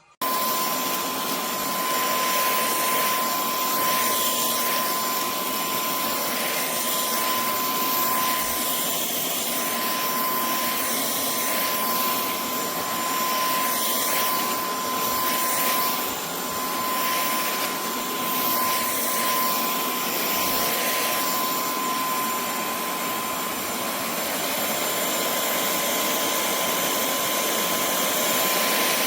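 KCLASO cordless stick vacuum cleaner running steadily: a loud rush of air with a steady high whine over it.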